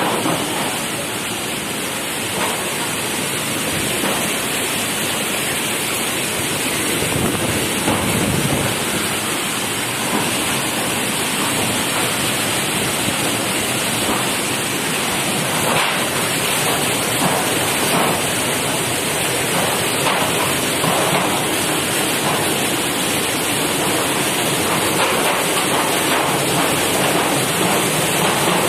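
Steady rushing noise of a tropical storm: rain and running water.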